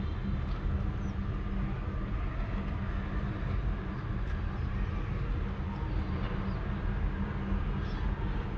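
Sleeping cat purring close to the microphone: a steady, continuous low rumble with a fine rapid flutter.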